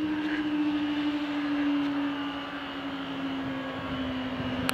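Southeastern Class 395 electric train running, its steady electric whine slowly falling in pitch over rolling noise.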